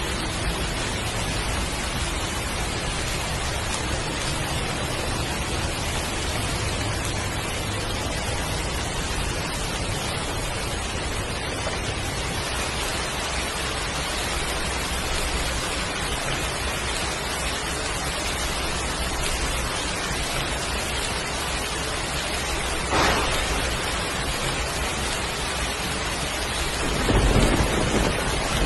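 Heavy rain falling steadily, with a short sharp crack of thunder about two-thirds of the way in and a deep rumble of thunder near the end.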